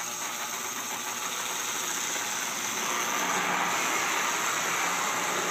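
Lionel O gauge steam locomotive with a Pullmor motor running slowly along three-rail track: a steady motor whir and wheel rumble with a buzz, getting slightly louder about two and a half seconds in. The buzz is described as 'a little bit buzzy', and the owner thinks the e-unit causing it may need cleaning.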